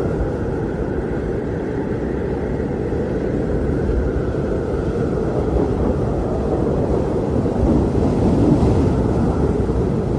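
Blizzard wind blowing steadily, a deep rushing noise with a fainter higher whistle above it, gusting stronger about eight seconds in.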